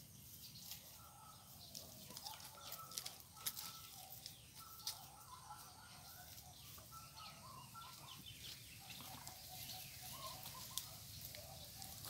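Faint calls of birds or farm fowl, many short repeated notes in a loose chatter, over scattered light crackles and a low steady rumble.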